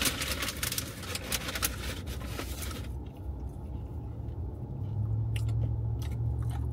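Crunching and chewing of tortilla chips with a paper takeout bag rustling. The crunching dies down about three seconds in, leaving a steady low hum that grows louder near the end.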